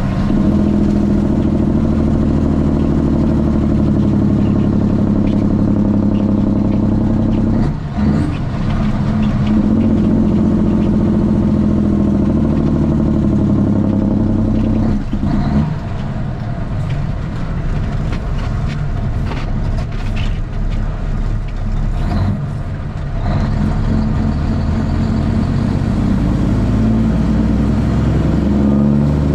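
Straight-piped Cummins ISX inline-six diesel of a loaded truck running under load on the road. The engine note breaks off briefly about a quarter of the way in and again near the middle, runs lower and rougher for several seconds, then comes back strong and climbs near the end.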